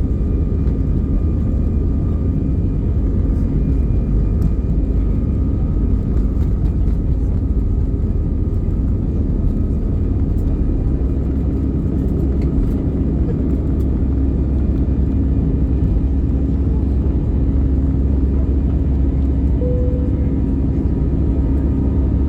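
Airbus A319 cabin noise: a steady, loud low rumble from the engines and airflow, with a constant hum over it.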